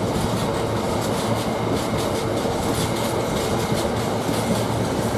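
Container freight train rolling past behind a Class 66 diesel locomotive: a steady rumble of wagons, their wheels clicking regularly over the rail joints, under a low steady hum.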